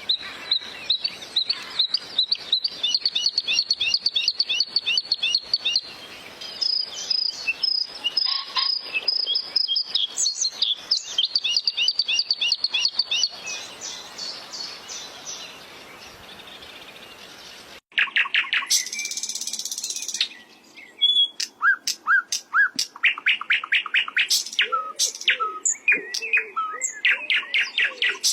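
A bluethroat singing in fast runs of repeated high chirps and trills, switching to a new phrase every few seconds. About two-thirds of the way through, the song breaks off suddenly and resumes as scattered sharp notes, with lower rounded notes underneath near the end.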